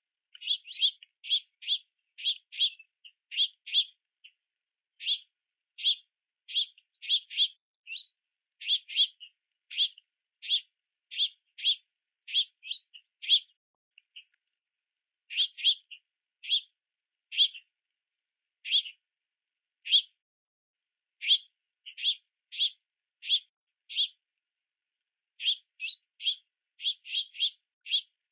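Juvenile house finches giving short, sharp begging chirps, one to two a second and often in quick pairs or clusters, with a brief lull about halfway through.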